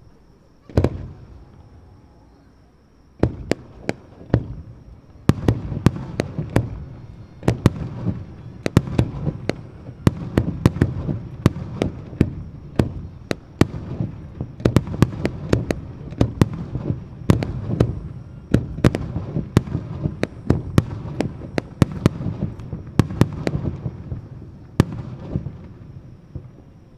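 Fireworks shells bursting at a display heard from a distance. A single bang comes first, then after a couple of seconds a dense, rapid barrage of sharp bangs with low rumbling echoes, thinning out near the end.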